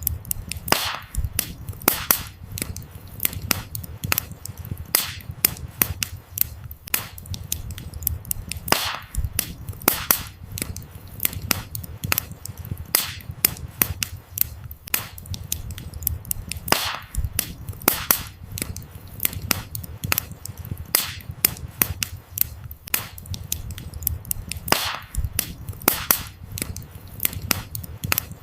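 Wood campfire crackling: a steady run of sharp pops and snaps from the burning firewood, with a louder pop every several seconds, over a low steady rumble.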